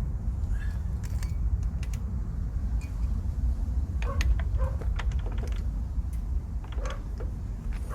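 Old Daedong power tiller's single-cylinder diesel engine running, a steady low chugging, with a few light metallic clicks from about four seconds in.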